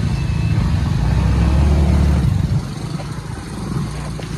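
A motor vehicle's engine running hard, loudest for the first two and a half seconds and then easing off.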